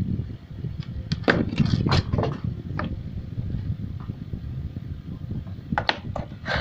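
Clicks and knocks of objects being handled, a cluster of them about a second in and another near the end, over a low rumble.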